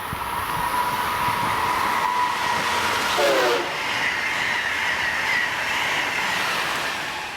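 Amtrak Acela trainset passing close at speed: a loud, steady rush of wheel and air noise with clickety-clack from the rails, holding at full strength throughout.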